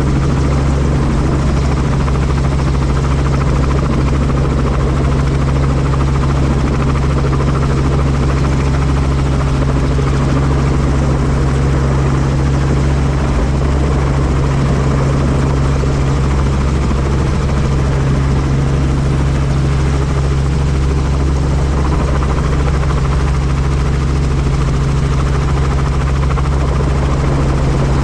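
Helicopter running steadily: a constant deep drone from the rotor and engine with an even rush of noise over it.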